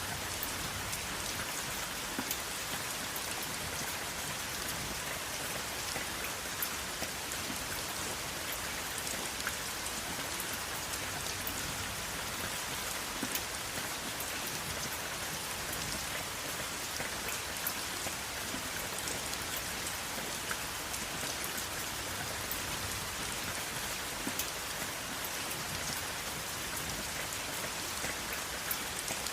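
Steady rain falling, an even hiss with many small sharp drop ticks spattering on a surface, no thunder.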